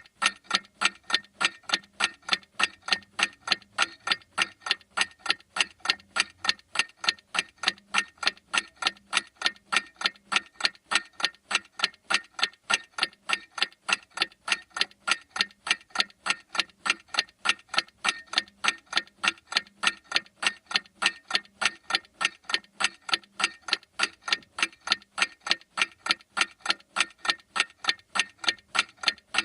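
Clock ticking in a steady, even rhythm of sharp ticks.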